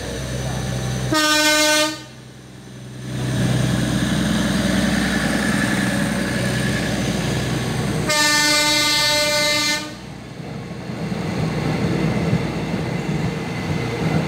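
Minangkabau Express diesel multiple unit sounding its horn twice as it passes close by: a short blast about a second in, then a longer one near the middle. Between and after the blasts, the train's diesel engines and running gear make a steady rumble.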